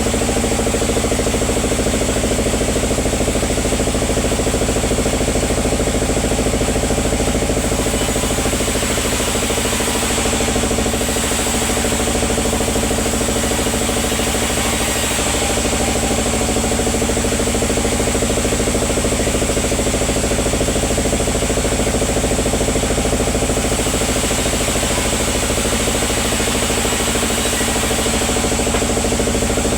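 Sawmill machinery running steadily: an engine hum with a constant mechanical rattle.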